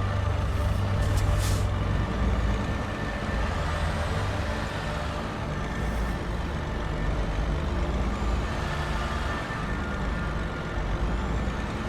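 Heavy truck engine running steadily, with a short air hiss about a second in.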